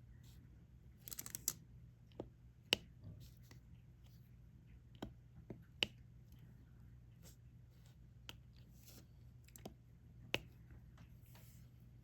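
Light, irregular clicks and taps of a diamond painting pen picking up small resin drills and pressing them onto the canvas, with a short cluster of rattling clicks about a second in.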